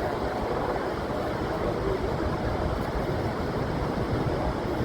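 Steady rushing roar of Niagara Falls' water, mixed with wind buffeting the microphone.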